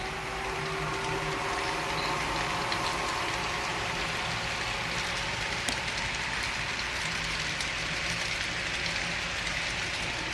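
HO scale model freight train running on the layout's track: a steady rushing noise of wheels rolling on the rails, with scattered light clicks and a faint hum in the first second or two.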